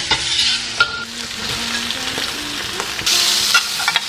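Chilli bean paste and pickled chillies sizzling in hot oil while being stir-fried, a spatula scraping and clicking against the pan. The sizzle grows louder about three seconds in.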